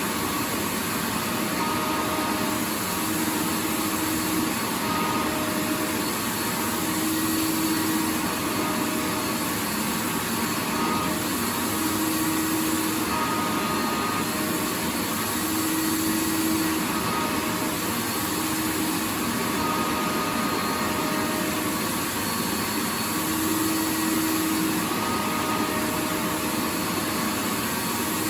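Vacuum cleaner running continuously with a steady rushing hiss, faint tones in its hum briefly coming and going every second or two.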